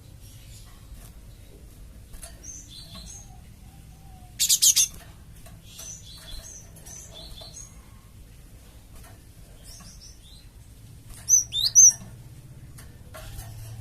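Cinereous tit (gelatik batu) calls: soft chirps, a short harsh buzzy rattle about four and a half seconds in, and loud sharp sweeping whistled notes near the end, over a low steady hum. This is a lure call meant to draw other tits to answer.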